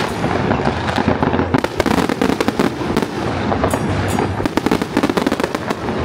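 Fireworks and firecrackers going off in a dense, unbroken string of rapid loud bangs and crackles.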